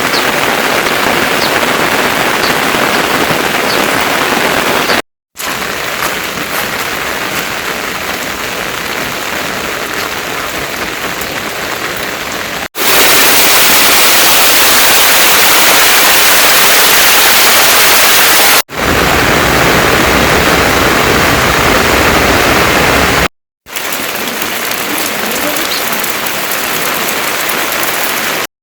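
Heavy rain falling steadily, as a dense hiss, across several cut-together stretches with brief silent breaks. It is loudest and brightest for about six seconds in the middle.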